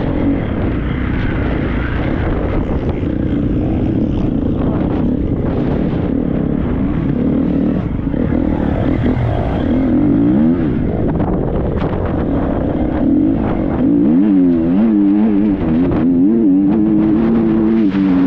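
Triumph 250 four-stroke motocross bike ridden hard off-road, its engine revving up and down as the throttle is worked, with the swings quickest late on before the revs hold steady. Wind rush and scattered knocks from rough ground run under it, heard from a helmet-mounted camera.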